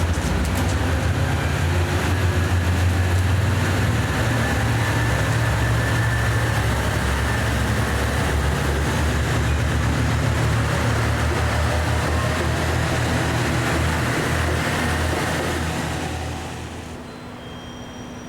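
KiHa 189 series diesel railcar's engines running as the train moves through, a steady low drone with a faint whine above it. The sound fades away near the end.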